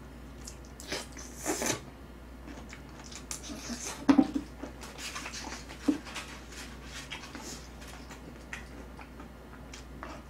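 Close-miked chewing and biting of saucy braised chicken, wet mouth noises and smacks, with small clicks of metal tongs against the dishes. A few louder smacks stand out, around one and a half seconds in and around four seconds in.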